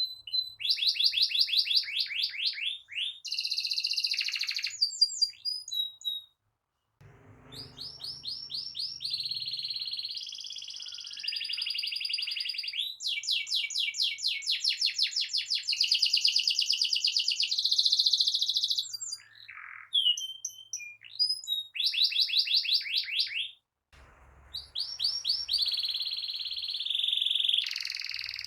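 Domestic canary singing a gacor song of long, fast rolling trills: runs of rapidly repeated notes, each lasting a few seconds, with two short breaks.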